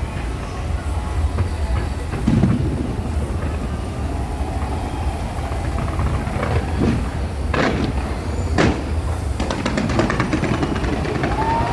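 Fireworks going off: a continuous low rumble of bursts with a few sharper bangs, the clearest two a second apart about eight seconds in.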